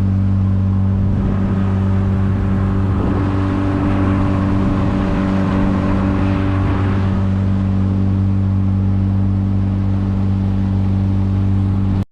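Small fishing boat's engine running steadily under way, a constant even drone with the rush of water along the hull.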